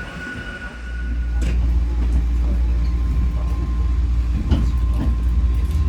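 Hakone Tozan Railway mountain train running, heard from on board: a steady high wheel squeal cuts off with a click about a second and a half in, and a deep rumble builds and holds steady.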